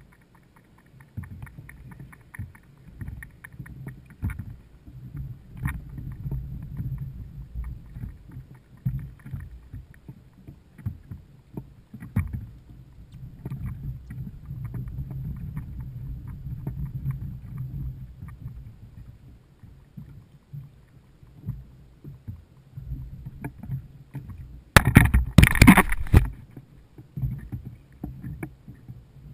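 Water sloshing and knocking against a fishing kayak's hull, with a steady low rumble and many small ticks and knocks. About 25 seconds in comes a loud rush of noise lasting about a second and a half.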